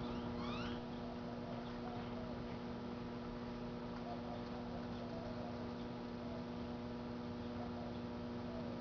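Microwave oven running with a steady electrical hum. A faint, high rising chirp sounds about half a second in.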